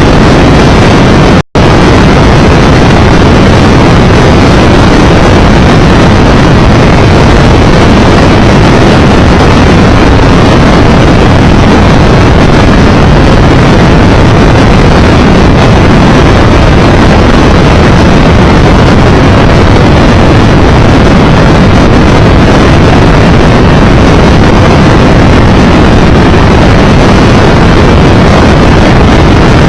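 Steady, loud rush of wind on the microphone of a Triumph Tiger Explorer 1200 motorcycle riding at road speed. The sound drops out to silence for a moment about a second and a half in.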